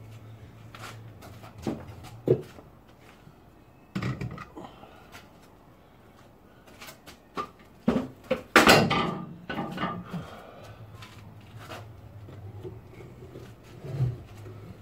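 Scattered knocks and clanks of hand tools and metal car parts being handled, with a louder clatter about eight to nine seconds in, over a faint low steady hum.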